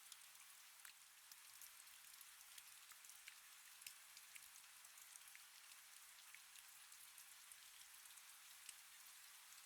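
Faint steady rain: a soft hiss full of small scattered drop ticks.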